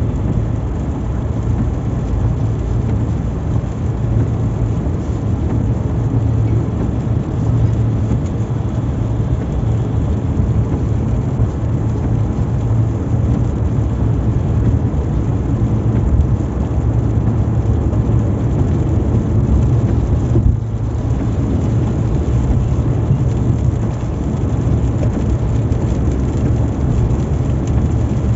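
Car driving on a highway in heavy rain: steady road and engine noise with rain hitting the car, briefly dipping about twenty seconds in.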